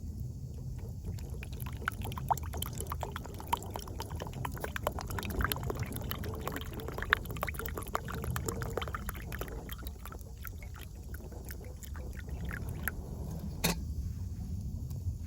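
Wood fire crackling in a small camp wood stove, with many irregular sharp pops and snaps, over a steady low rumble.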